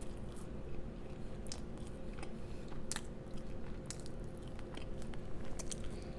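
Close-miked chewing and biting of food, with scattered short wet mouth clicks and crunches, over a steady low hum.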